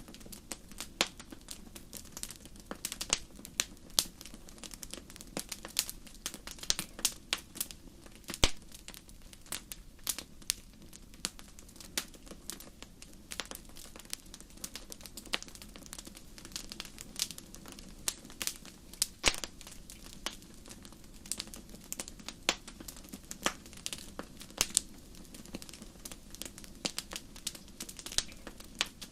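Wood fire crackling: irregular snaps and pops, a few louder ones, over a steady low rumble.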